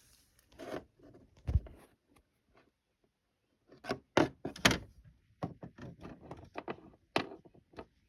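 Handling noise: a scattered run of knocks and thumps with smaller clicks between them, the loudest two a little past the middle.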